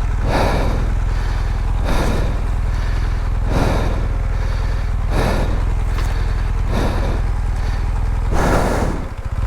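BMW R1200GS boxer-twin engine idling steadily, its pitch unchanging, so it is not being revved. Over it, six regular rushing swells about every second and a half: heavy breathing into the helmet microphone during a struggle with a bike stuck in mud.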